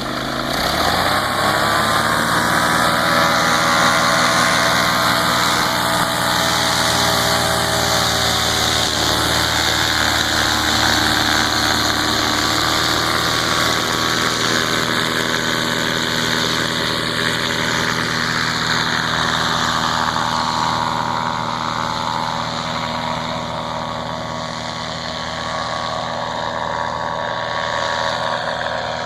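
Home-built two-cylinder four-stroke V-twin paramotor engine running under throttle. It climbs in pitch over the first couple of seconds, then holds fairly steady. About two-thirds of the way through it eases off, and it rises again near the end.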